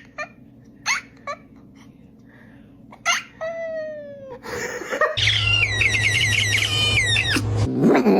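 A house cat making short, high falling chirps, then a fast run of chirps a few per second, chattering, about five seconds in, with a low steady hum under the run.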